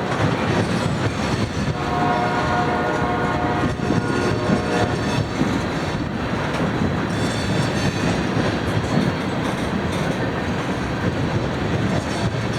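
A train passing close by, with continuous wheel-on-rail rumble and clatter. The locomotive's air horn sounds a chord-like blast for about three seconds, starting about two seconds in.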